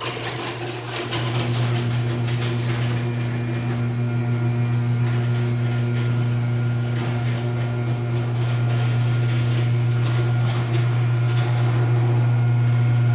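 Garage door opener motor running a 9x8 North Central sectional garage door down, a steady low hum with a little buzz to it. Light clicking and rattling from the door and its hardware run through the motor sound.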